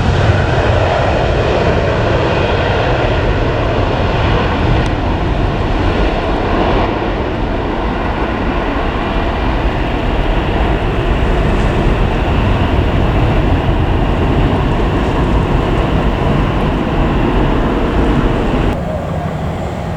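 Jet airliner engines running loud and steady. The sound drops suddenly about nineteen seconds in.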